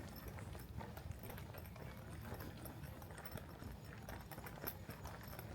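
Footsteps of someone walking along a trail, a string of short clicking steps over a low, steady rumble.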